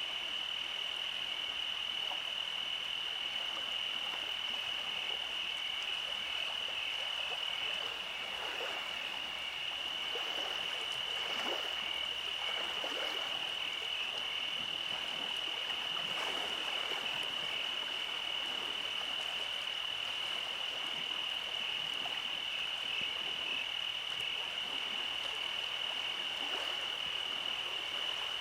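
A night chorus of frogs croaking, with a continuous high, steady trill running underneath; the croaking grows busier from about a third of the way in.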